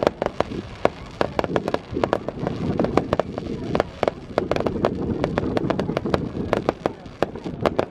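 Fireworks going off: a rapid, irregular string of sharp bangs and cracks, several a second, over a constant low background rumble.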